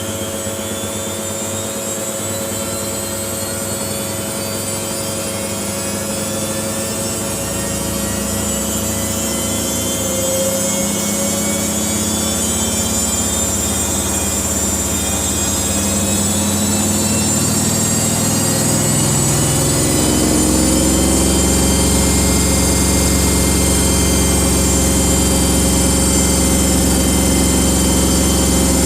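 Samsung washing machine drum spinning up: the motor's whine climbs steadily in pitch as the drum gathers speed, and a low rumble grows louder about two-thirds of the way in.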